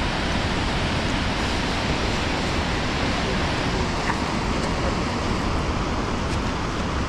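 High Force waterfall on the River Tees: a steady, even rush of falling water with no change through the stretch.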